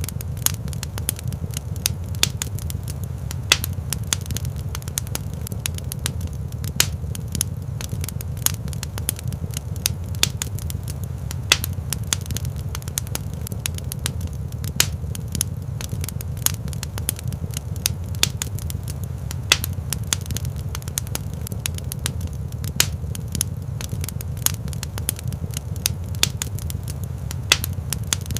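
Fire crackling in a fireplace: many sharp, irregular pops and snaps over a steady low rumble.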